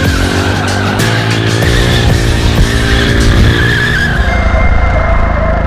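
Motorcycle rear tyre squealing in a rolling burnout over the running engine, its squeal dropping lower in pitch about four seconds in. Music plays underneath.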